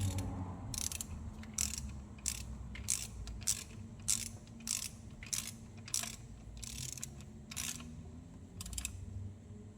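Socket ratchet clicking in about a dozen short strokes, roughly every two-thirds of a second, as a bolt is run down on an engine timing chain job.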